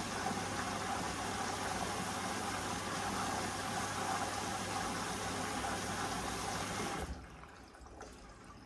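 Hoover Vision Dynamic washing machine with water rushing through it under a low hum, which cuts off abruptly about seven seconds in, leaving faint drips.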